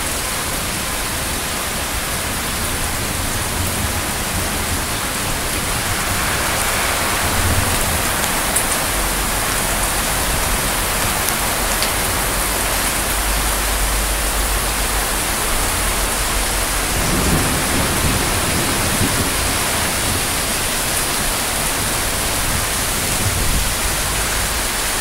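Heavy rain pouring steadily, with a long low rumble of thunder from about nine seconds in to about sixteen.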